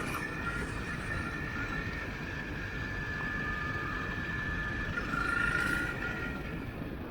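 Motorcycle riding along a forest road, with a low rush of engine and wind noise and a steady high-pitched squeal that holds for several seconds and fades near the end.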